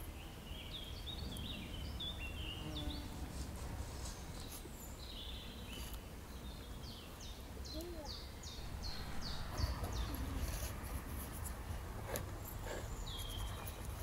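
Songbirds chirping: runs of short, quickly falling chirps, thickest in a rapid series a little past the middle, over a steady low rumble. A few faint knocks come in the second half.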